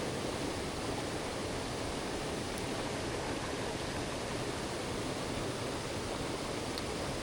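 Mountain headwater stream rushing steadily: an even wash of water noise with no breaks.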